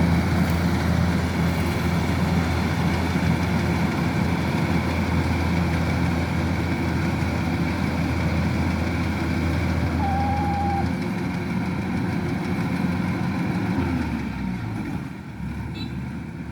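Kubota DC-105X combine harvester's diesel engine and threshing machinery running steadily. The engine note changes about eleven seconds in and the sound grows quieter near the end.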